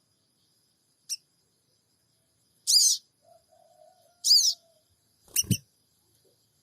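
Sogon bird giving short bursts of sharp, high "cingik cingik" chirps, four times, each a quick run of zig-zag notes. A low thud sounds with the last burst.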